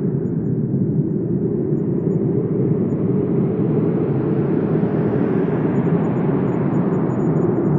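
Wind blowing steadily with a low rumble, swelling into a stronger gust around the middle and easing off near the end.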